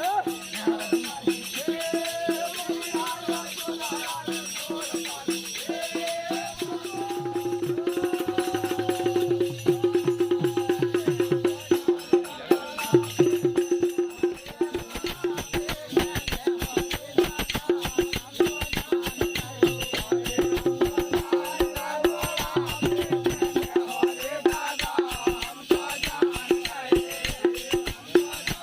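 Bundeli Rai folk dance music: singing over fast, dense drumming and jingling, rattling percussion, with a steady held tone underneath.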